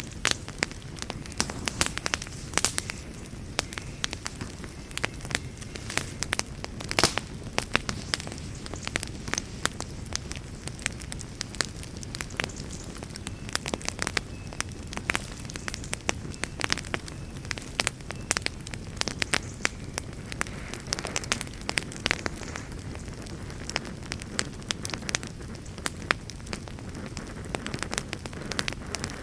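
Campfire burning: a steady low rumble of flames with frequent, irregular sharp crackles and pops, a few louder snaps now and then.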